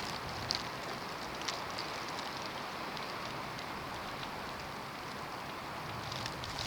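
Snowstorm: a steady hiss of wind and blowing snow, with a few faint ticks.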